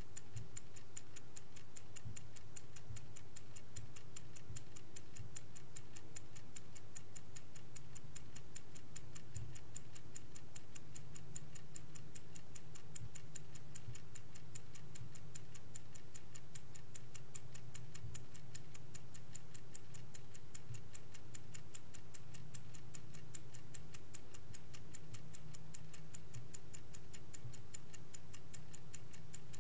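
Vintage Swiss-made Angelus clock ticking steadily in a fast, even rhythm, with a low steady hum underneath.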